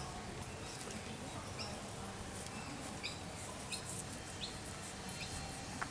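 A bird chirping a few times, short high notes spaced about a second apart, over a steady background hiss.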